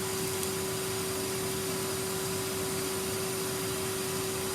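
Numatic Henry canister vacuum cleaner running steadily: a constant motor hum with one steady pitched whine.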